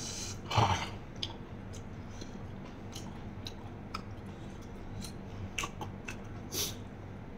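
A person chewing a mouthful of spicy raw beef salad close to the microphone: small wet mouth clicks and smacks scattered throughout, with one short, louder rush of noise about half a second in.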